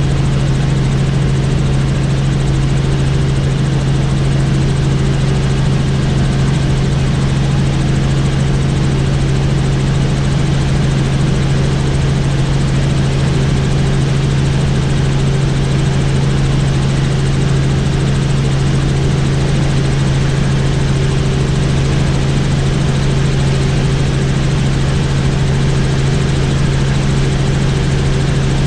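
Helicopter in flight, heard from on board: a loud, steady rotor and turbine drone with a strong low hum and an even rushing noise that does not change.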